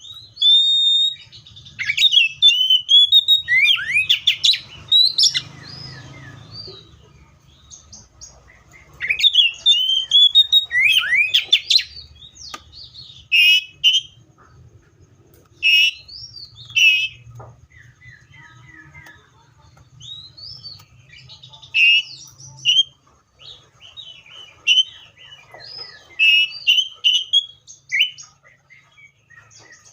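Seychelles magpie-robin singing: loud phrases of gliding whistles and quick chirps, broken by short pauses.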